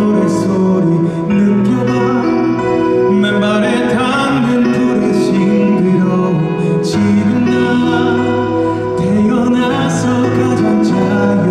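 Live concert performance of a song: sustained sung vocal lines over instrumental accompaniment.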